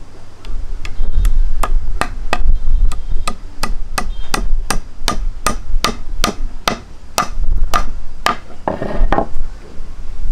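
A steady run of about twenty sharp knocks, close to three a second, like an object being struck over and over, with wind rumbling on the microphone. The knocks stop about eight seconds in, and a short rasping noise follows.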